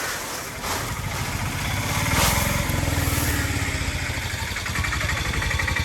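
A small engine running close by, picking up about two seconds in and then running on steadily.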